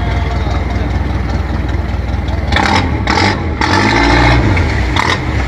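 A boat's 100-horsepower engine running steadily with a low throb. From about halfway through, voices shout over it for a couple of seconds.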